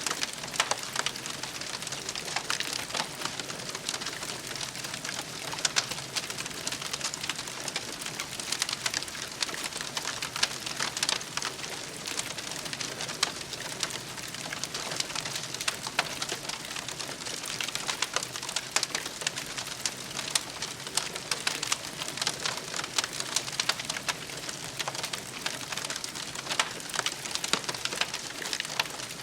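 Campfire crackling, with irregular sharp pops and snaps over a steady hiss.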